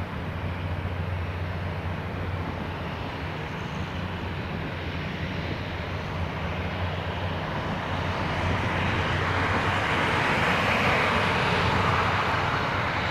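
Jet airliner engine noise: a steady low hum with a wide rush that swells to its loudest about three-quarters of the way through, then eases slightly.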